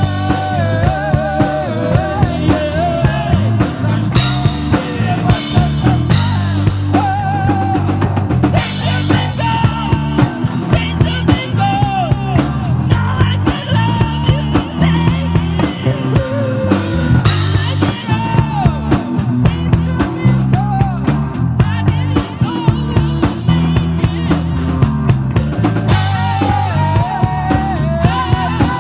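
Rock band playing live: a drum kit keeps a steady beat on bass drum and snare, under low bass notes and a wavering, bending lead melody.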